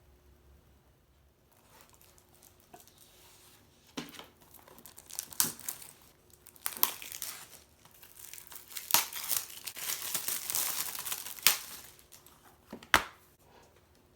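Wrapping being crinkled and torn by hand in bursts for several seconds, with a few sharp clicks among the crackling; the first few seconds are nearly quiet.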